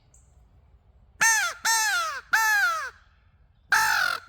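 Brute Caw crow call blown to imitate a crow: three loud, harsh caws about half a second each, then after a short pause two more caws begin near the end.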